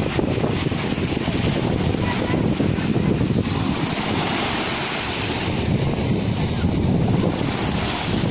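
Sea surf washing in steadily, with wind buffeting the microphone and adding a deep rumble.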